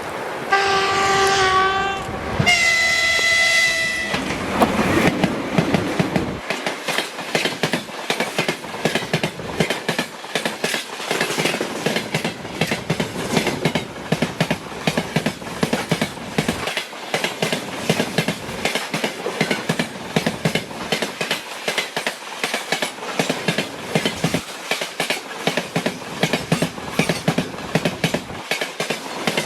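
Locomotive horn sounding two blasts, the second higher-pitched than the first, followed by the steady rhythmic clatter of freight wagon wheels passing over rail joints.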